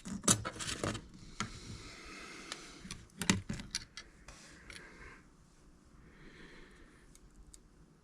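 Small tools and parts handled on a workbench: a cluster of sharp clicks and taps in the first second, light scraping, then another run of clicks about three seconds in, growing quieter after that.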